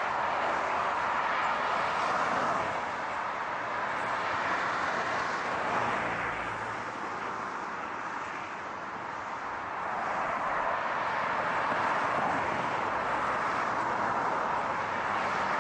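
Steady rush of car and road traffic noise, easing off a little past the middle and swelling again.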